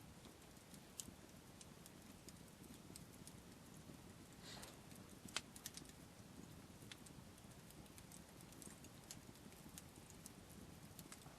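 Faint wood campfire crackling, with scattered irregular pops and snaps, the sharpest about five and a half seconds in, over a low steady hush.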